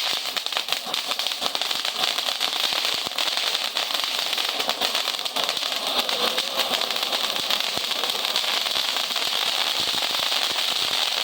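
A lit firework spraying sparks: a steady hiss thick with rapid crackling, with no separate bangs.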